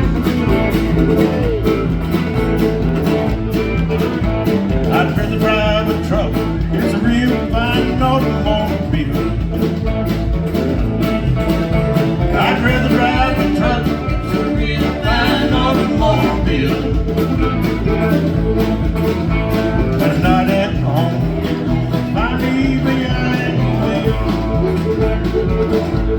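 Live country band playing the instrumental opening of a song: guitar over a steady, even bass beat.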